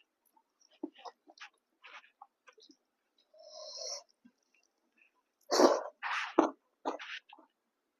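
Close-miked eating sounds: wet chewing and lip smacking on pork, chicken and rice. A softer slurp comes about halfway, and louder slurping and sucking bursts follow a little later.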